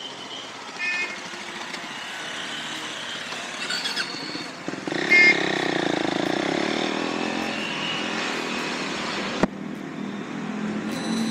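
Motorcycle engine running as the bikes move off, getting louder about five seconds in. Two short high beeps come through, one about a second in and a louder one around five seconds.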